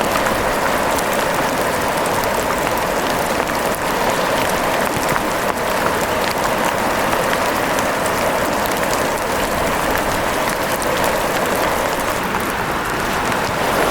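Steady rain falling, an even hiss sprinkled with many small sharp clicks.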